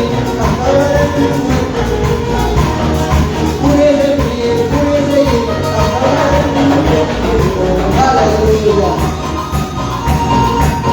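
Latin American gospel band music playing loud and steady, with a melody over a strong, even bass line and singing.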